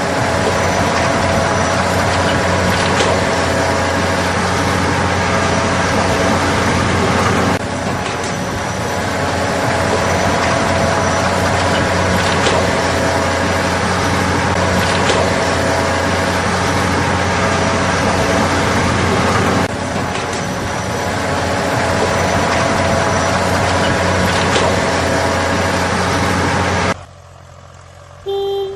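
Heavy vehicle engine running loudly and steadily, its sound shifting abruptly about 7 and 20 seconds in, then cutting off suddenly near the end.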